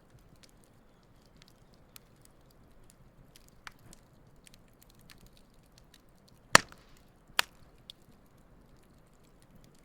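Wood campfire crackling: scattered small ticks and snaps, with two loud pops from the burning wood about six and a half and seven and a half seconds in.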